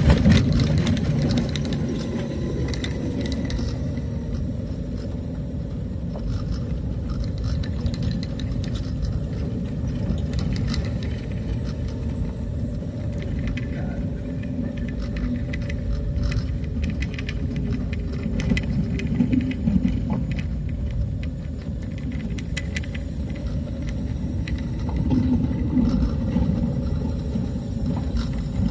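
A vehicle on the move: a steady low rumble with scattered rattles and clicks from the cabin or body.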